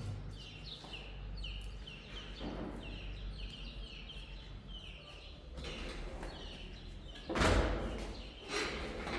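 A small bird calls over and over in short, high, falling chirps, about two a second. About seven seconds in, a loud rough scraping or rustling noise cuts in over it.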